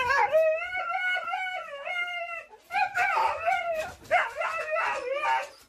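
A dog howling and whining in long, wavering cries, with a short break about halfway through.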